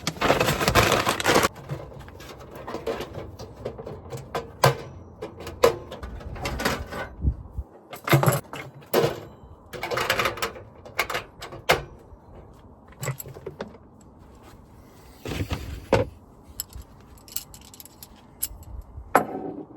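Cooking gear and groceries being handled: irregular clatter, clicks and knocks with bursts of rustling, the loudest rustling at the very start.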